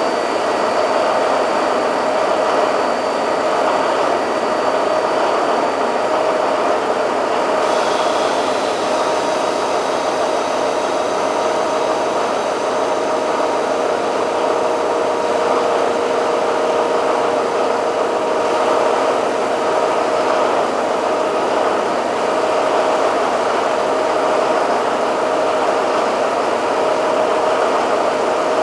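Caterpillar V12 600 kW diesel rig engine running at a steady speed.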